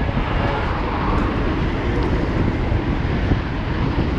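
City street traffic heard from a moving bicycle: a steady, loud rumble of passing vehicles and road noise.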